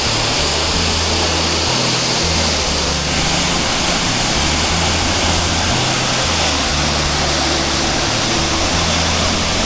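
Waterfall rushing water, a loud, steady roar, with low bass notes of background music changing underneath.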